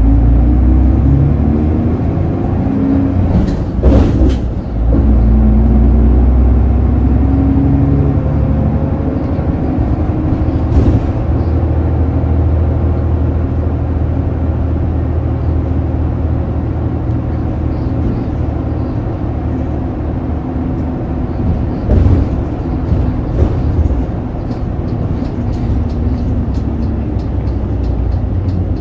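City bus's diesel engine heard from inside the cabin, pulling away and rising in pitch twice through the gears in the first several seconds, then running steadily. A couple of sharp knocks, about four seconds in and again after about twenty seconds, come over the running noise.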